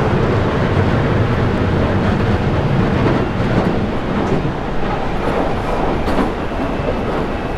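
Victoria line 2009 Stock train running between stations, heard from onboard: a steady low rumble of wheels on rail in the tunnel, with a few faint clicks partway through, easing slightly in loudness.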